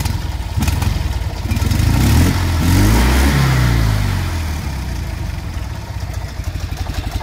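Fiat 126p two-cylinder engine running through a newly fitted exhaust. It is revved once, rising about two seconds in and falling back to a steady idle a couple of seconds later.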